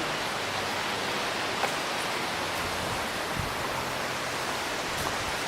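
Steady, even rushing of flowing creek water, with a few faint ticks.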